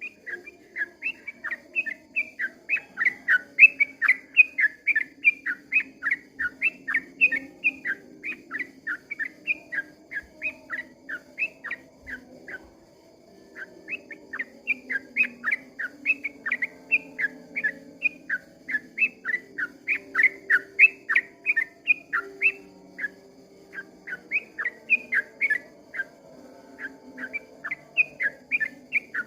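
Yellow-vented bulbul (trucukan) singing a long rapid run of chirping notes, about four a second, with one short pause a little before halfway.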